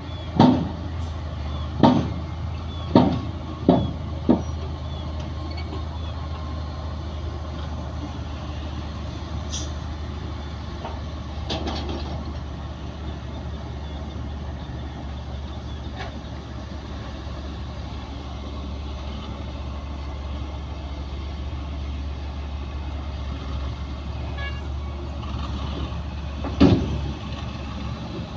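Bulldozer's diesel engine running steadily at work, with sharp loud bangs: five in quick succession in the first few seconds and one more near the end.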